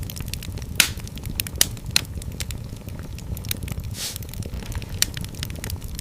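Fireplace fire crackling, with irregular sharp pops over a low steady rumble; the strongest pops come at about one second in and around two seconds in.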